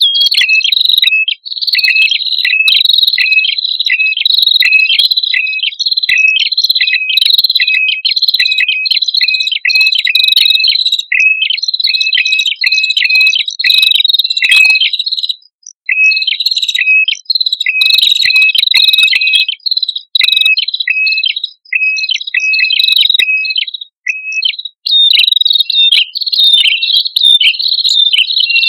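Male and female prenjak kepala merah calling together in a rapid, unbroken run of high chirps, with brief breaks about 15 and 24 seconds in.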